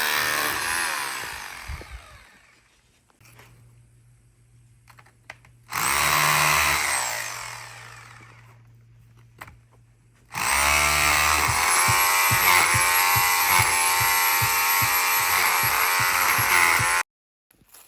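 An electric power tool's motor running up to speed and spinning down twice, then running steadily for several seconds before stopping abruptly.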